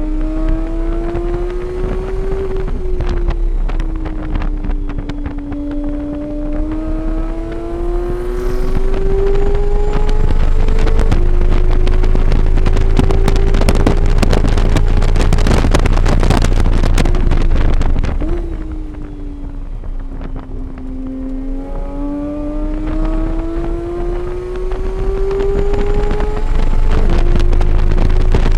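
Engine at high revs on a race track, its pitch climbing under acceleration and dropping at gear changes about 2 s, 11 s and 18 s in. For the middle stretch, roughly 10 to 18 s in, a loud rush of wind over the microphone drowns out most of the engine note.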